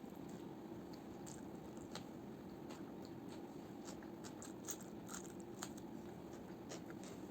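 Close-miked eating: a person chewing food, with many small wet clicks and smacks from the mouth coming irregularly over a steady low room hum.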